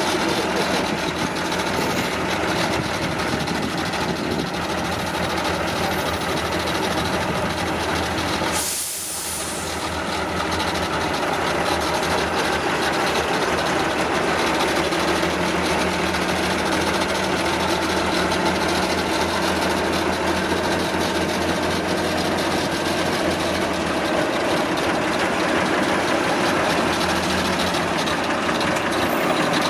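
Heavy off-road truck engine running steadily, with a constant hiss over it. There is a brief change about nine seconds in.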